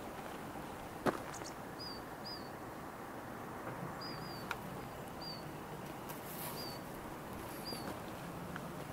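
A small bird gives about seven short, high chirps, some in quick pairs, over a steady hiss. A sharp click sounds about a second in.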